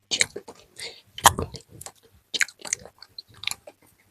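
ASMR mouth sounds: a quick, irregular run of wet clicks and smacks, loudest about a second in and tailing off near the end.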